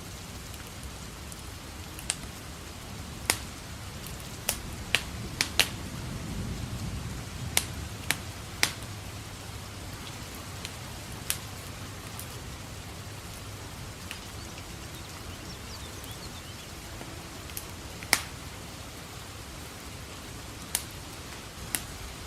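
Steady rain hiss with a wood fire crackling in a fireplace: irregular sharp pops every second or two. A soft low rumble swells briefly about six seconds in.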